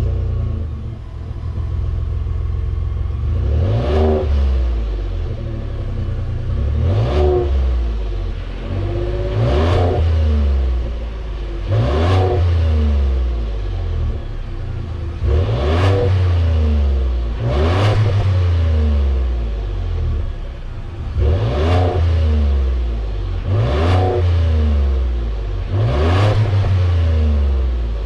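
Ford 3.5L EcoBoost twin-turbo V6 just after a cold start, revved about nine times in quick blips every two to three seconds. Each rev rises and falls back to a steady idle.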